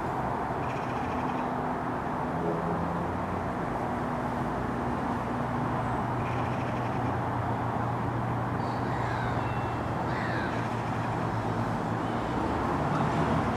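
Bird calls a few times over a steady low rumble with a constant hum.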